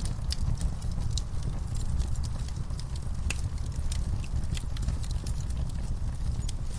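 Wood fire burning in a fireplace: frequent irregular sharp crackles and pops over a steady low rumble.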